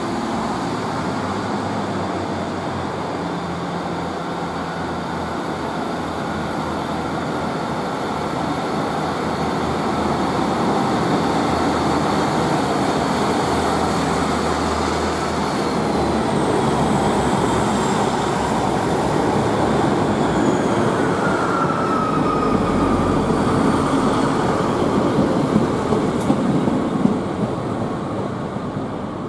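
Diesel multiple unit train (a Class 150 Sprinter) running at a station platform, its engine a steady low hum at first. Train rumble and rail noise grow louder partway through, with a falling high whine and wheel squeal in the middle and a few sharp clicks near the end.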